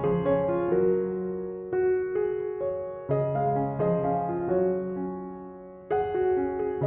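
Piano music: notes and chords struck every second or so and left to ring and fade, with a louder chord near the end after a long fade.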